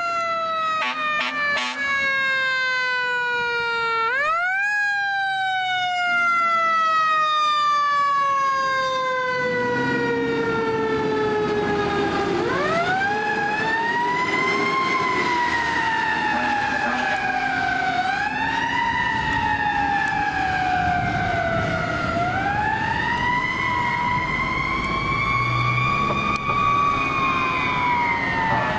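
Fire engine's siren wailing: a slow falling tone that is wound back up about four seconds in, falls again, then rises and falls three more times. The truck's engine rumbles under it in the second half.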